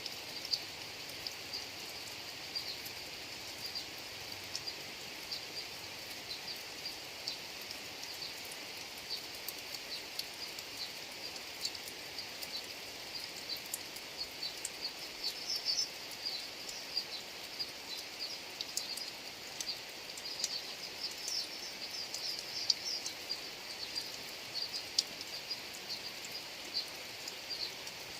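Steady rain falling, with scattered sharp drop ticks on top of the hiss. A high, rapid chirping runs through it throughout, busier in a couple of stretches in the middle and toward the end.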